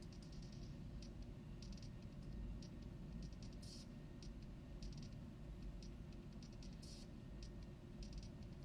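Faint irregular clicking, a few clicks a second, over a steady low hum.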